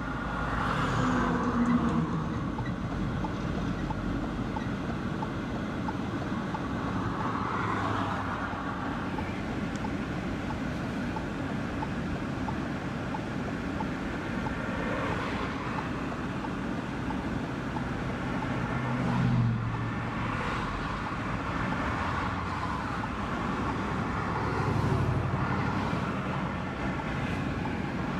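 Steady road noise of a car being driven, heard from inside, with brief louder swells several times.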